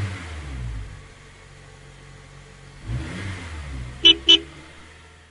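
Cartoon bus sound effect: an engine running and revving up twice, fading away, with two quick horn toots about four seconds in.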